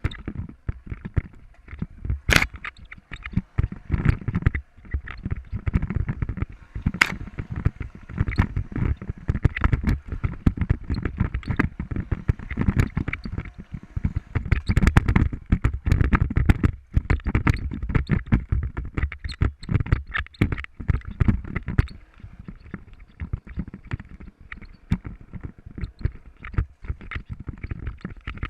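Motorcycle ride over rough ground, heard from a camera mounted on the bike: irregular knocks and rattles over low rumbling, with a sharp crack about two seconds in and another about seven seconds in.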